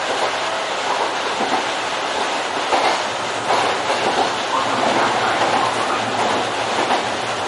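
Kintetsu electric commuter train running along the track, heard from on board: a steady rolling noise of wheels on rail with irregular clatter.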